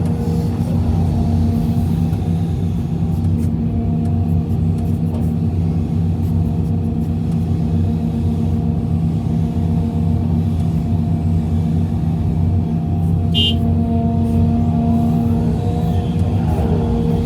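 Heavy diesel engine of earthmoving machinery running steadily at a constant speed, with a deep, even drone.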